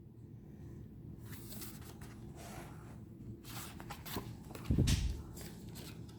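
Faint rustling and tapping of tarot cards being handled, with a short low thud about five seconds in.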